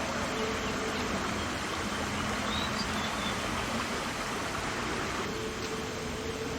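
Steady rushing hiss of outdoor forest ambience, with a faint short high chirp about two and a half seconds in.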